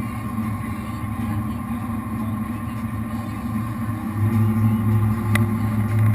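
Jet boat's V8 engines running at low speed in a steady low drone, growing louder about four seconds in.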